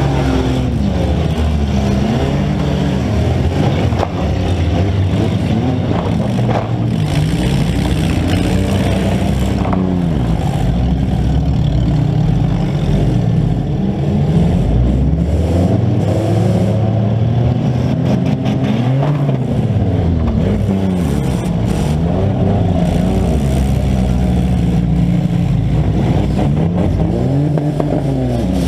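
Several demolition-derby compact cars' engines revving up and down at once, their pitches rising and falling against one another, with a few short knocks along the way.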